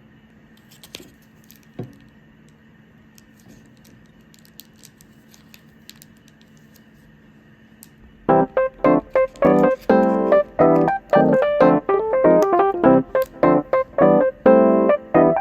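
Faint room hum with a few small clicks, then about eight seconds in a piano-like keyboard starts playing, a quick run of short notes that goes on to the end.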